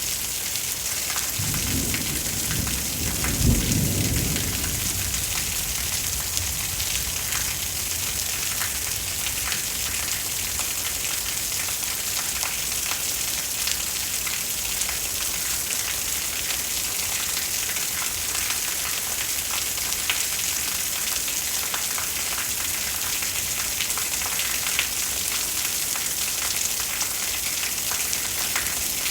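Steady rain with a constant hiss and many small drop ticks. A low roll of thunder rumbles from about two seconds in and fades by about four and a half seconds.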